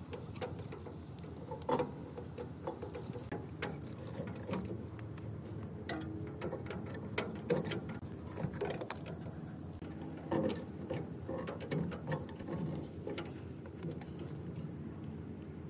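Irregular clicks and light metal knocks, like parts and hand tools being handled, over a steady low hum.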